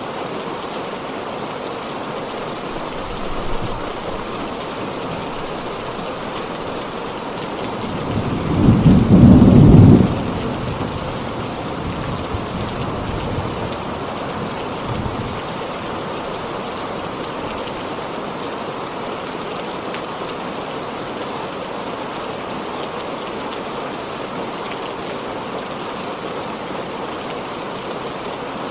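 Heavy rain falling steadily, with a faint rumble of thunder about three seconds in and a loud roll of thunder about eight seconds in that lasts about two seconds and rumbles on faintly for several seconds after.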